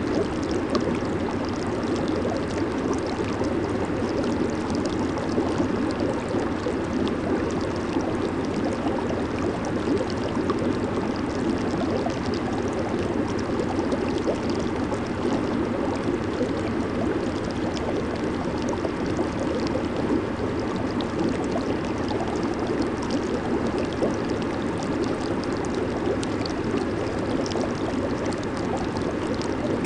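Hot tub bubbling steadily: churning, gurgling water from the jets or air blower, with fine fizzing of bursting bubbles over it.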